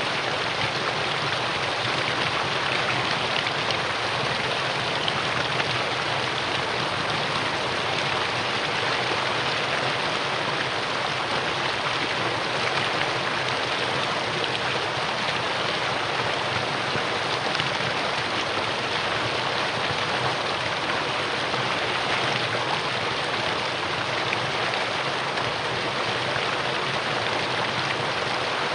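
Mountain stream rushing over rocks in a valley, a steady, even flow of water.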